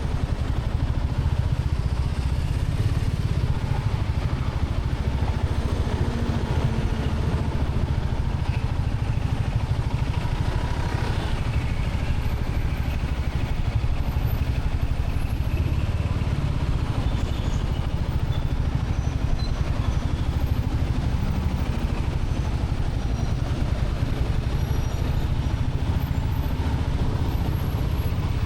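Royal Enfield Classic 350's single-cylinder engine running steadily under way, a continuous low rumble without clear revving or changes in pace.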